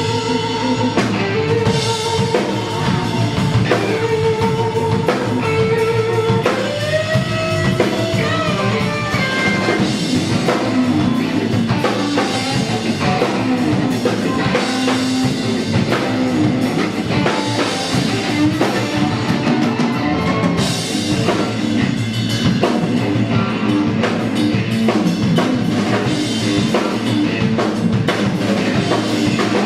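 Rock band playing a riff-rock tune: guitar over a drum kit, with held guitar notes in the first few seconds, then notes bending in pitch.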